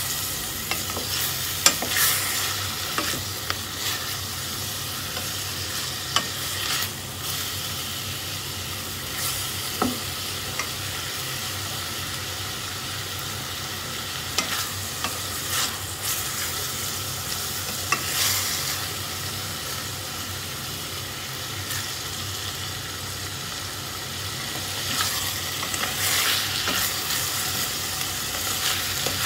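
Diced meat and onion sizzling as they fry in a stainless steel pot, stirred with a wooden spatula that scrapes and knocks against the pot now and then.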